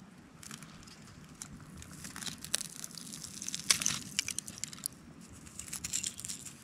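Crunching and scraping of movement over gritty sandstone, with scattered sharp clicks and crackles, the loudest nearly four seconds in.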